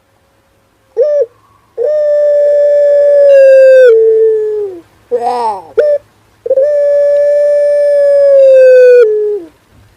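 Male puter dove cooing: twice, a short note followed by a long, steady held coo that steps down in pitch at its end.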